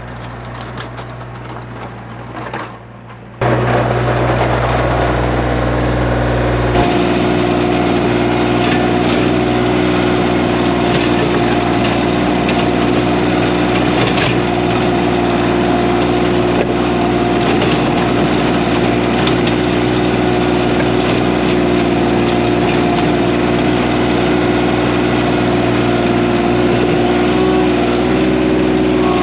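Kioti CK3510 SE compact tractor's three-cylinder diesel running steadily under load while its PTO-driven rotary tiller churns root- and rock-filled ground, with scattered knocks from stones hitting the tines. The sound is quieter for the first few seconds, then jumps louder about three and a half seconds in.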